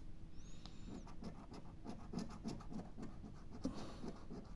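Scratch-off lottery ticket being scratched, with quick short strokes several times a second.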